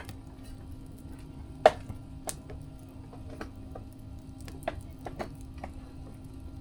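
Wood fire crackling, with scattered sharp pops; the loudest comes about one and a half seconds in.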